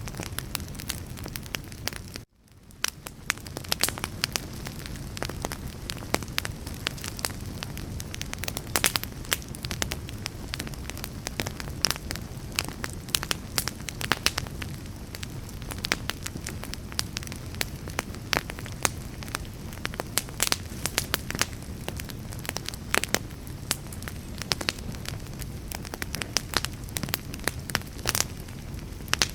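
Wood fire burning with a steady low rumble and frequent sharp crackles and pops. About two seconds in the sound drops out briefly and fades back in.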